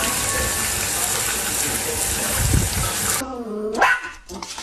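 Running water gushing steadily, cutting off suddenly about three seconds in; then a short call that rises in pitch.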